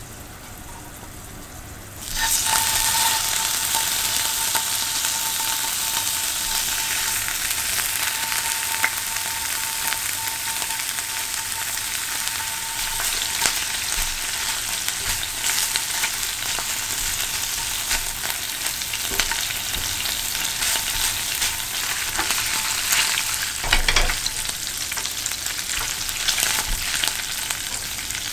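Canned mackerel frying in hot oil with garlic and chili in a frying pan: a sudden loud sizzle starts about two seconds in, then steady sizzling and crackling as tongs break up and stir the fish, with a sharper knock near the end.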